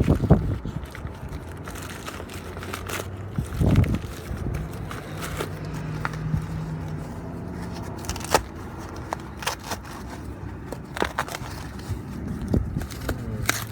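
A mailed package being opened by hand: crinkling, scraping and tearing of packaging with scattered sharp clicks and knocks, the loudest knock about four seconds in.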